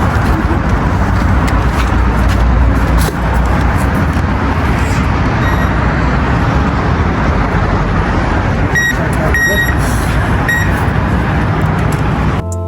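Loud, steady rumble of motor-vehicle or engine noise, with a few short, high electronic beeps about nine to ten seconds in.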